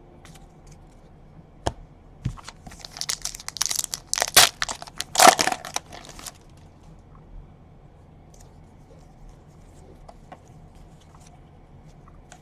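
A foil baseball-card pack wrapper being torn open and crinkled in a run of sharp crackling bursts, starting about two and a half seconds in and lasting nearly four seconds, after a single click.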